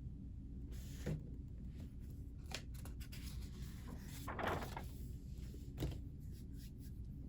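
Small handling noises at a study desk: a few light clicks and knocks and a brief rustle about four seconds in, over a steady low hum.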